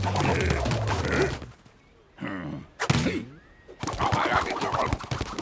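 Cartoon sound effects: a run of short noisy bursts with quick gliding whistle-like tones and a sharp hit about three seconds in.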